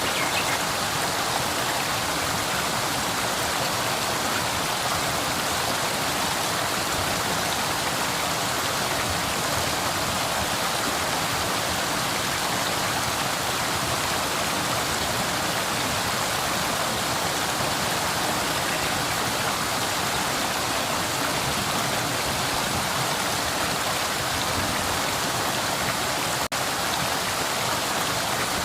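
Flowing river water rushing steadily, with an even, unbroken sound. A momentary drop-out comes about two seconds before the end.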